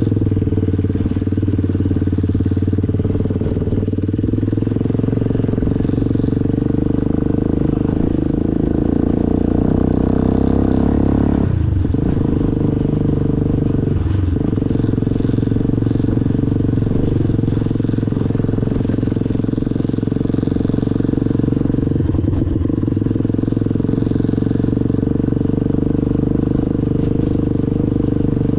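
Motorcycle engine running steadily under way, its note dipping briefly a few times, most clearly about twelve and fourteen seconds in.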